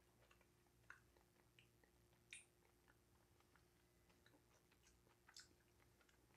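Very faint mouth sounds of a man chewing a jelly bean: scattered soft wet clicks and smacks, a few a little louder than the rest.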